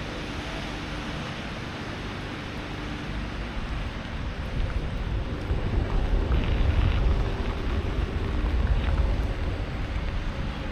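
A train rolling into the station: a low rumble builds about four seconds in, is loudest for a few seconds, then eases, over steady wind noise on the microphone.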